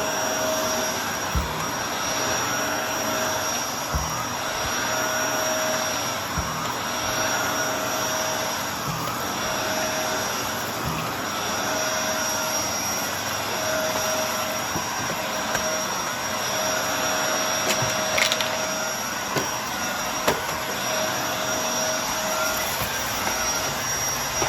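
Brushroll vacuum cleaner running steadily over carpet, its pitch wavering as it is pushed back and forth, with a few short knocks.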